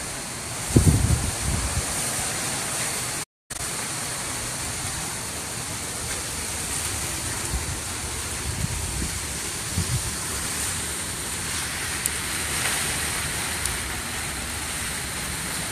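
Hurricane wind rushing steadily, with low gusts buffeting the microphone about a second in and again around nine to ten seconds. The sound cuts out for a split second a few seconds in.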